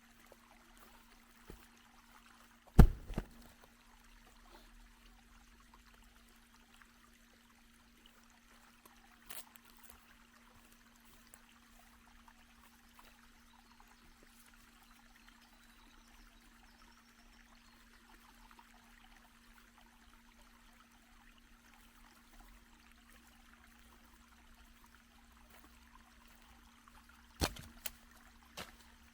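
Faint steady trickling of water, with a low steady hum under it. A loud sharp knock about three seconds in, a lighter one near ten seconds and another loud knock near the end stand out.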